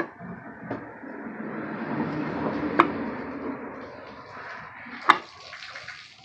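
Metal engine cover being fitted onto a motorcycle crankcase over a new gasket: a rough rubbing noise for a few seconds with four sharp metal clicks and knocks.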